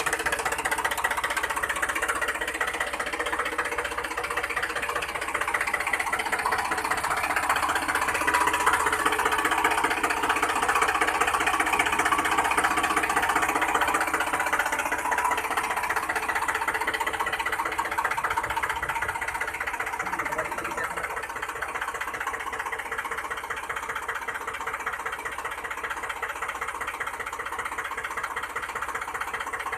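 Small motor of a DIY model tractor running steadily with a fast, buzzing rattle, a little louder for a few seconds near the middle.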